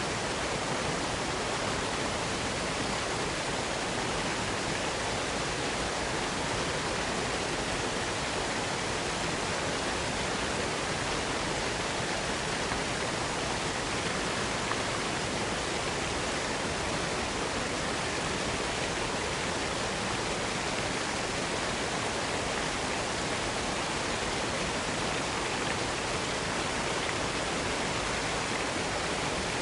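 Waterfall pouring steadily, an even rushing of falling water with no change in level.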